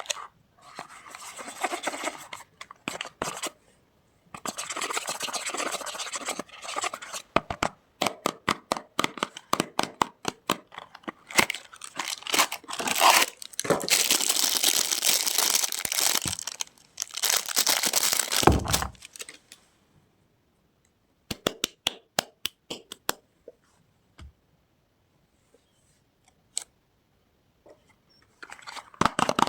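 Soap packaging being torn open and crinkled by hand: several stretches of tearing and rustling with runs of quick crackles between them, then only a few scattered crackles with quiet gaps near the end.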